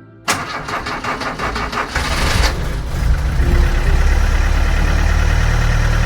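An engine cranked by its starter with rapid, even strokes, catching about two seconds in and settling into a steady idle.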